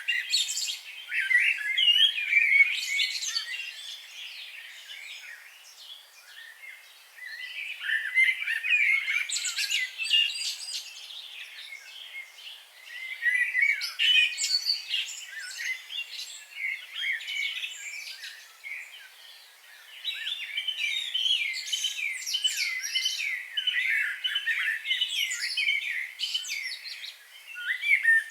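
Several songbirds singing and chirping together in a busy chorus of quick, twittering phrases, coming in bouts with brief quieter lulls.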